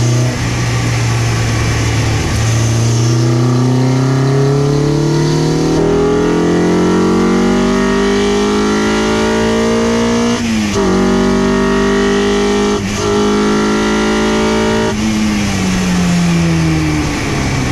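Honda K-series four-cylinder in a swapped Miata, heard from inside the cabin, pulling hard at full throttle with its pitch climbing for about ten seconds. Two quick upshifts cut the sound briefly, the pitch drops and climbs again, and near the end the driver lifts off and the engine note falls as the car slows.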